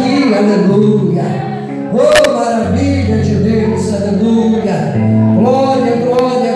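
Live worship music: a congregation singing a hymn with instrumental accompaniment, and a sharp click about two seconds in.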